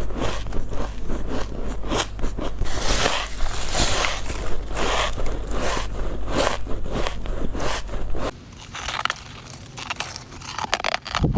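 Ice cubes being bitten and crunched between the teeth close to the microphone: a rapid run of sharp crunches and crackles. They stop about eight seconds in and start again near the end.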